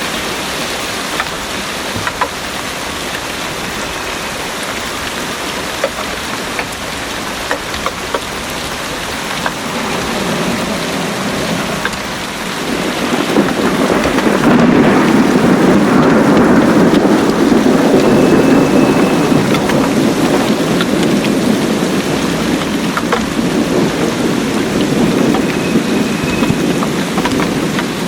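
Heavy rain falls steadily with scattered sharp drips. About halfway through, a long roll of thunder builds and rumbles for several seconds before slowly fading.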